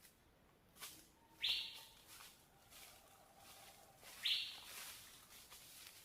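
Bird calling with a short, harsh, buzzy note, repeated twice about three seconds apart.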